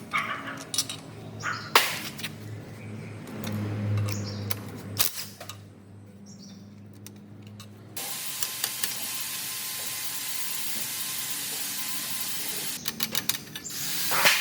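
Several sharp metallic knocks and clicks, then from about eight seconds in a steady hissing spray that starts suddenly.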